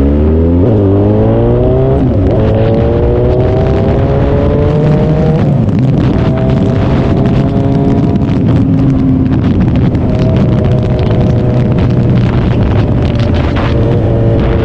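Suzuki Hayabusa's inline-four engine accelerating through the gears. Its pitch climbs and drops back at each upshift, about one, two and five seconds in, then holds a nearly steady cruise, with wind rush throughout.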